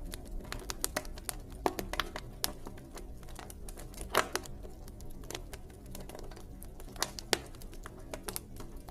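Campfire crackling: burning wood giving off irregular sharp pops and snaps over a low, steady rumble. The loudest pops come a little past four seconds in and twice around seven seconds in.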